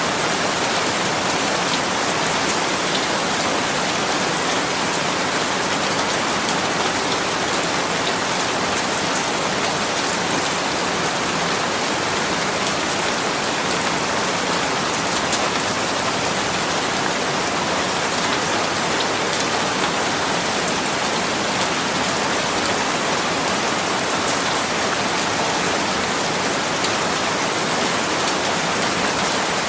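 Steady rain falling on a surface, an even hiss of many drops with faint individual drop ticks and no change in intensity.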